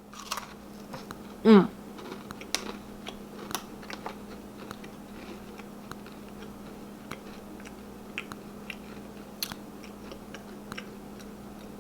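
A person biting into and chewing a white chunk macadamia nut thin cookie: scattered small crunches and clicks, with a brief voiced murmur about a second and a half in. A faint steady hum sits underneath.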